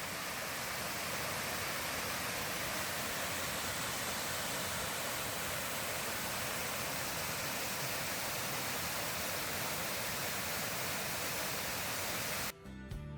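Steady rushing roar of Sable Falls, a waterfall, an even hiss of falling water with no break. It cuts off suddenly near the end as music comes in.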